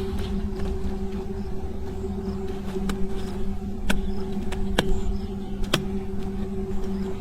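A motor running steadily with a constant low hum, and three sharp clicks about a second apart midway.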